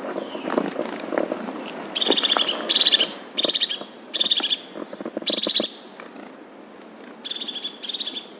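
A bird calling in short, rapid, buzzy trills, about seven of them, repeated with uneven gaps.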